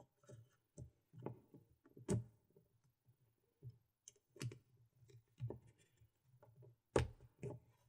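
Irregular soft clicks and taps from handling a GoPro Hero 4 Silver camera and its packaging, with a sharper knock about seven seconds in.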